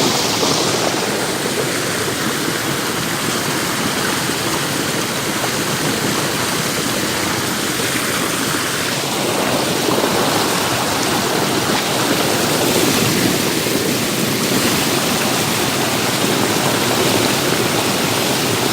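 Mountain creek water rushing over rocks in a small cascade, a loud, steady rush close to the microphone.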